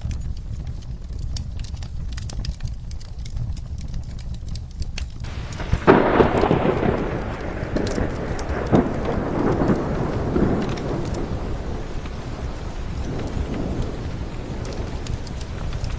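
Steady rain with a clap of thunder breaking about six seconds in and rolling away over several seconds, with the crackle of a fireplace fire throughout.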